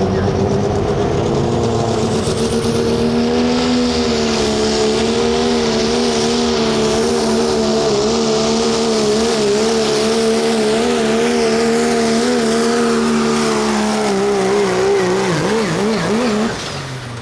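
Limited pro stock diesel pickup truck engine running at full throttle under load, pulling the sled, its pitch steady and high for most of the run. Near the end the engine speed wavers up and down, then falls off sharply.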